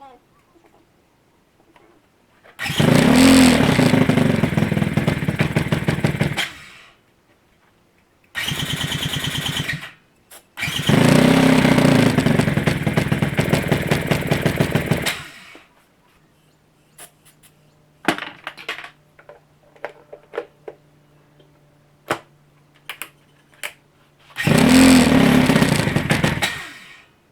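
Honda Rancher ATV engine being cranked over on its starter in four bursts of a few seconds each, the longest about four and a half seconds, with a few faint clicks in the long gap before the last one. It is a hard start after a carburetor refit on a quad that had sat with old gas.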